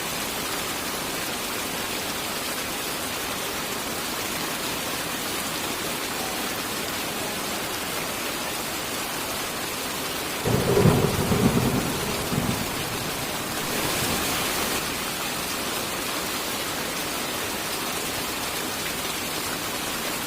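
Steady heavy rain, with a clap of thunder about halfway through that rumbles for a couple of seconds, and a fainter swell a few seconds later.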